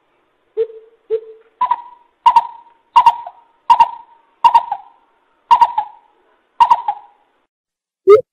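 Greater coucal decoy call: a few low hoots, then a run of higher, clipped notes about one every 0.7 s, each starting with a sharp click and trailing off.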